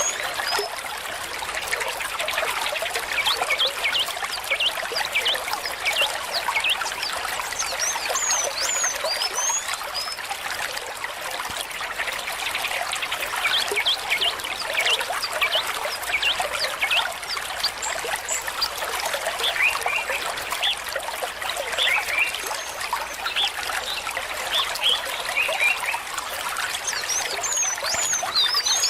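Shallow stream trickling and babbling over stones, a steady run of small bubbling splashes.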